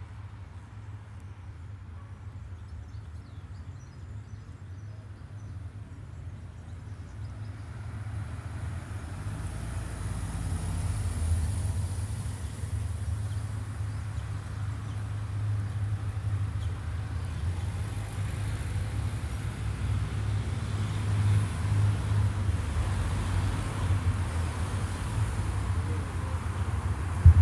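Jet aircraft passing high overhead, a broad distant roar that slowly grows louder, over a low rumble, with a brief knock near the end.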